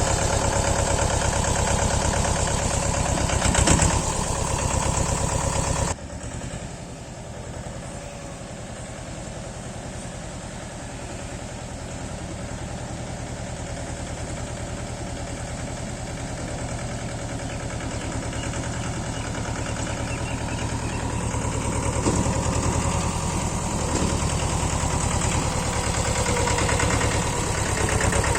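Mahindra Jivo 245 DI mini tractor's two-cylinder diesel engine running steadily. About six seconds in it drops suddenly to a quieter level, then slowly grows louder again.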